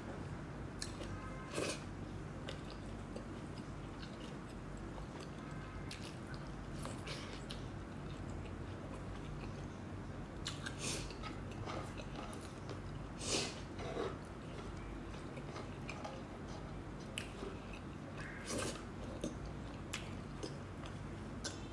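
Close-miked chewing and mouth sounds of a person eating rice and meat with her fingers: scattered short, wet clicks and smacks over a steady low hum.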